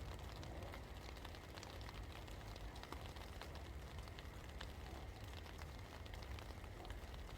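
Steady rain falling, with many individual drops ticking sharply on a hard surface over an even hiss, and a low steady rumble underneath.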